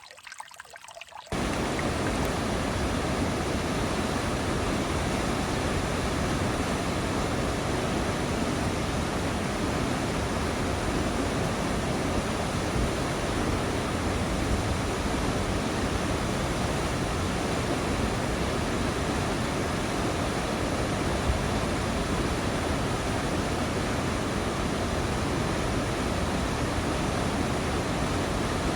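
Rushing water of a stream or waterfall, a steady, even rush. It starts suddenly about a second in, replacing a fainter trickle.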